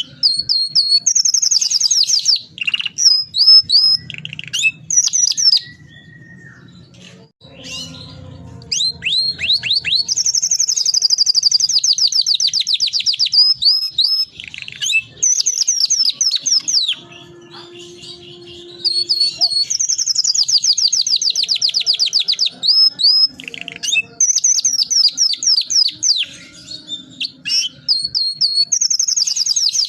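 Domestic canary singing vigorously: long, rapid rolling trills of about four seconds each, twice, between bursts of short chirps and quick falling whistled notes.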